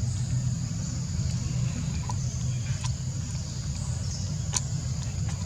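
Steady low rumble with a continuous high-pitched buzz over it, insect-like in pitch, and a few faint sharp ticks, one clearer about four and a half seconds in.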